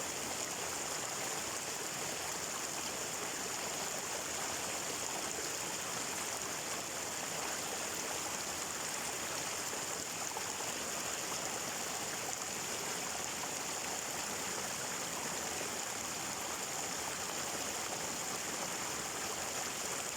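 Water flowing steadily in a stream, a constant even rushing hiss with no pauses or changes.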